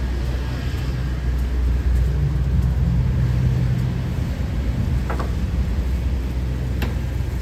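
Night city street ambience: a steady low traffic rumble with a vehicle engine humming past, strongest a couple of seconds in, and two short sharp clicks near the end.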